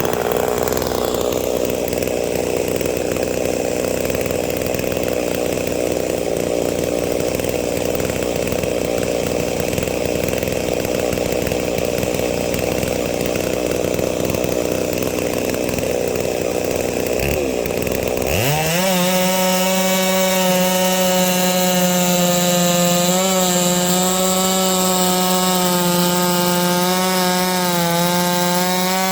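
Big-bore 98.5 cc two-stroke chainsaw (Holzfforma G660) on an 8-tooth sprocket running at full throttle through a log in a chainsaw mill. About two-thirds of the way in, the engine note dips briefly, then climbs and settles into a steady, higher, cleaner whine.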